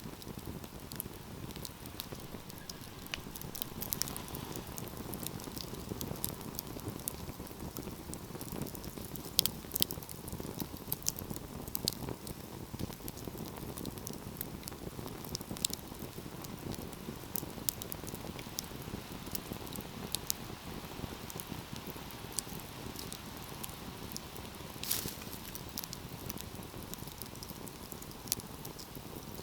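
Wood fire burning steadily with a low hiss of flames and constant irregular crackling, broken by a few louder sharp pops of burning wood.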